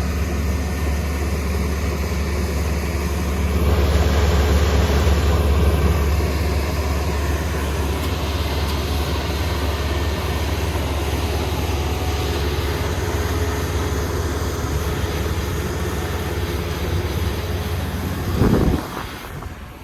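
Kubota ER470 Dynamax Revo combine harvester running steadily while it cuts rice, a continuous engine drone mixed with machinery noise. It is a little louder a few seconds in. Near the end there is a brief louder rush, and then the sound drops away sharply.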